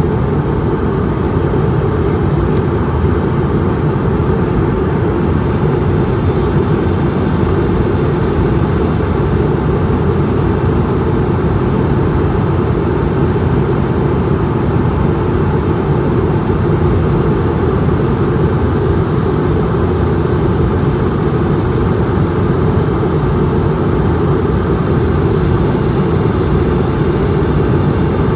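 Steady in-flight cabin drone of an Airbus A220-100, heard from inside the cabin: engine and airflow noise, mostly low and unbroken, with a faint steady high tone above it.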